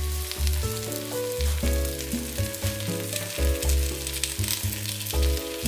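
Sausages and sliced onions sizzling in the hot pot of a Ninja Speedi with its lid open, with background bossa nova music.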